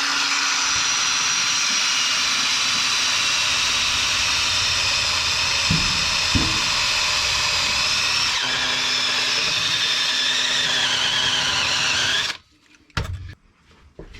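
Power drill running under load as it bores a hole, a steady whine that changes pitch slightly about two-thirds of the way through and cuts off suddenly a couple of seconds before the end.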